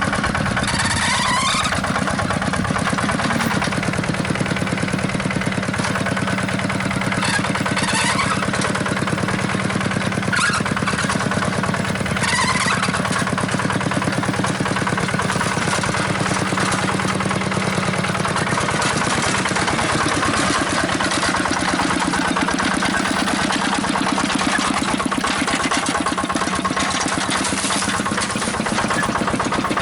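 Small engine running steadily with a fast, even putter, as on a hand tractor, with a few brief rising whines in the first half.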